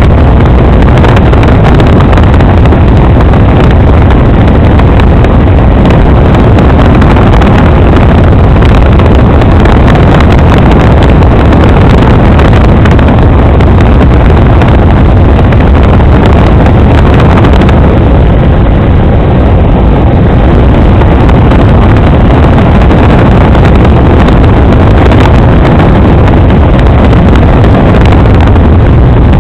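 Helicopter in flight, heard from inside the cabin: a loud, steady drone of rotor and engine with a strong low rumble that overloads the microphone.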